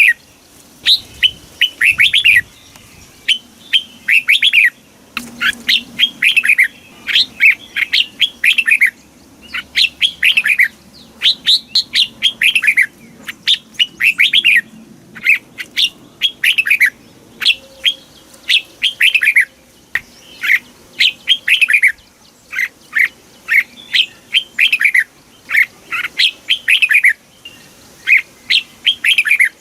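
Red-whiskered bulbul singing: short phrases of quick chirpy notes, repeated one after another with brief gaps, roughly one phrase a second.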